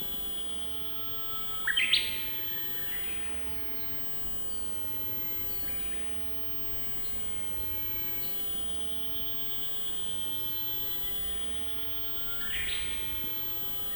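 Wild birds calling over the steady rush of a mountain river: a loud burst of song about two seconds in, a fainter call around six seconds, and another near the end, with a steady high tone running underneath.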